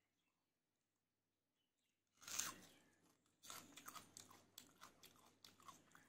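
A person chewing food close to the microphone: a crunch about two seconds in, then a run of quick, crackly chewing noises.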